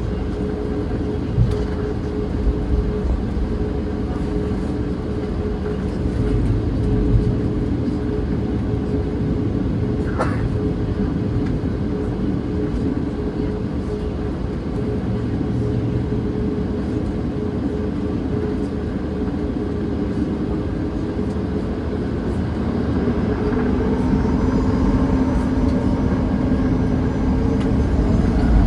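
A vehicle's engine running steadily with a constant hum. Near the end the level climbs and a whine rises in pitch.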